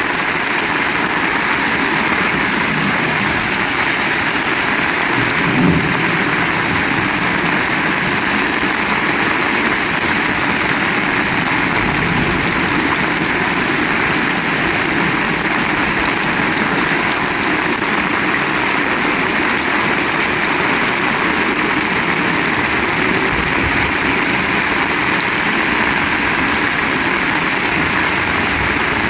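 Heavy rain falling in a steady, dense hiss, with one brief knock about six seconds in.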